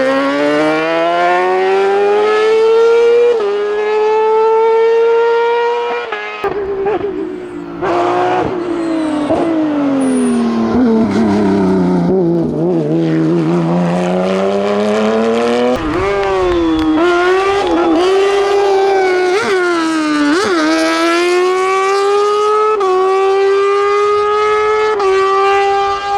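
Hillclimb race car engines at full throttle, the revs climbing and stepping down at each gear change. About halfway through, the pitch sinks low and then climbs again, and the sound changes abruptly twice as one run gives way to another.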